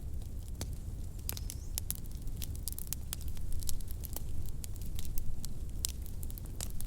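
Wood fire crackling in a fireplace: irregular sharp pops and snaps over a steady low rumble, a little busier in the middle.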